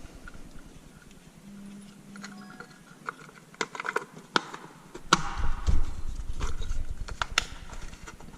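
Scattered sharp clicks and knocks of wires and small plastic and metal parts being handled and pushed into a cramped electrical housing, coming faster and with a low rumble of handling from about halfway through.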